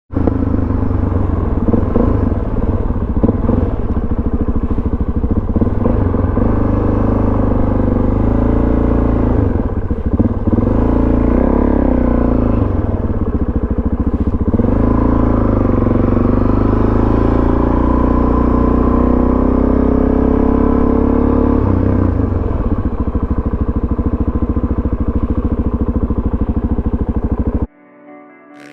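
Suzuki DRZ400 supermoto's single-cylinder four-stroke engine with a Yoshimura exhaust, running hard with the revs repeatedly rising and falling under the throttle. The engine sound cuts off suddenly near the end and soft piano music comes in.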